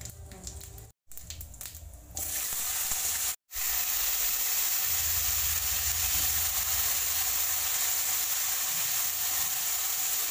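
Potato cubes frying in hot oil in a kadai, a steady sizzle. It is quieter for the first two seconds, with two brief dropouts, then runs loud and even.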